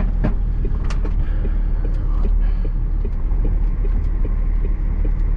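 Lorry's diesel engine running with a steady low rumble, heard from inside the cab, with light rattling and a couple of sharp knocks near the start as the lorry rolls over bumpy ground.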